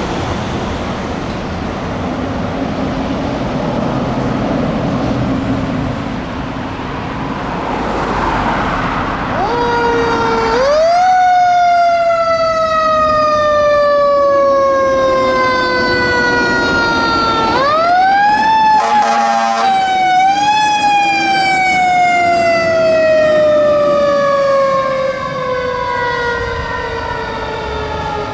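Fire engine passing on a Code 3 run. Its Federal Q mechanical siren winds up about a third of the way in, then coasts down in a long falling wail, and is wound up twice more. A short horn blast sounds between the second and third wind-ups, over the noise of the engine and the road.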